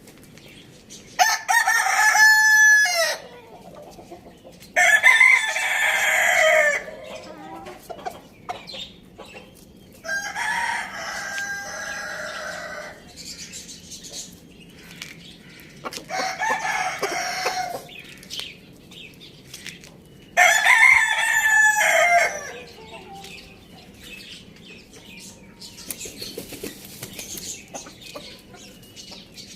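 Rooster crowing five times, each crow a drawn-out call of about two seconds, spaced several seconds apart.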